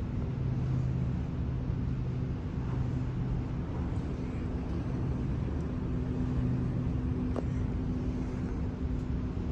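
A steady low engine drone with two humming tones that swell and fade, over a rumble of wind and water noise.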